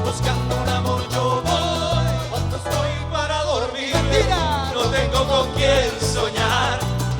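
Live band playing a Latin American popular song, with a steady stepping bass line under a wavering lead melody.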